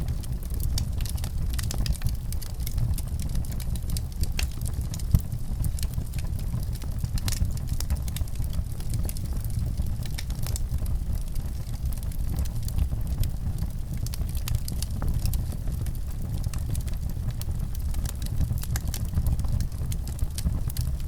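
Wood fire burning in a fireplace: a steady low rumble of flame with frequent scattered crackles and pops, one sharper pop about five seconds in.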